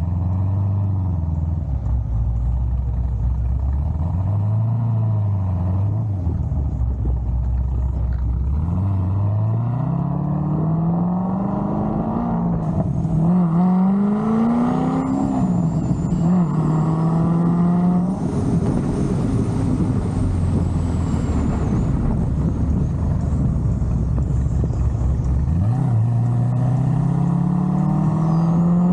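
Big-cam 7.0-litre LS7 V8 of a C6 Corvette Z06 idling, then rising in pitch as it accelerates. It drops back, holds a steady speed, settles low again and climbs once more near the end.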